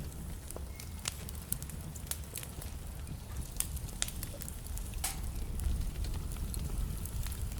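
Wood fire crackling in a fireplace: a steady low rumble of burning with frequent sharp pops and snaps, one louder pop about five seconds in.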